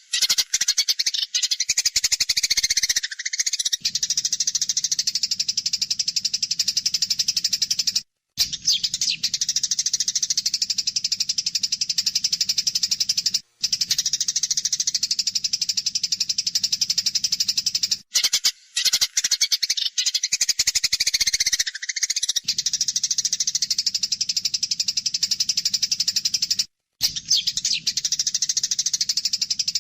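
Eurasian tree sparrows chattering in a fast, dense stream of harsh chirps: the agitated calls of sparrows fighting. It is broken four times by a brief, sudden silence.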